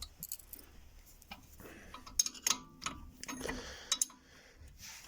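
Scattered light clicks and taps of metal tools and brake parts being handled, with a brief faint ringing a little over two seconds in.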